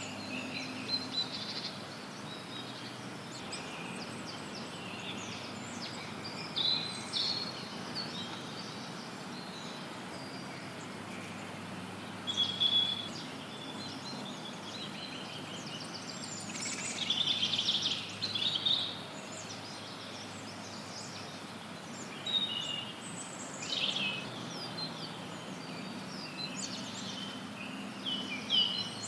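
Songbirds calling and trilling in a forest, in scattered phrases with gaps between, over a steady hiss of added white noise.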